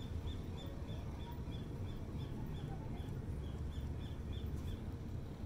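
A small bird calling a short high note over and over, about three times a second, stopping shortly before the end, over a steady low rumble.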